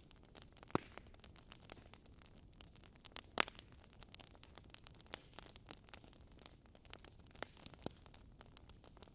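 Wood fire crackling in a fireplace: a dense, irregular run of small crackles, with louder pops about a second in and again about three and a half seconds in.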